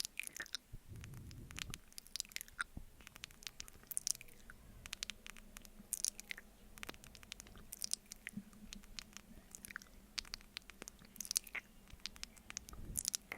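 Close-miked mouth sounds of eating honey off a spoon: irregular, sticky wet clicks and smacks, several a second.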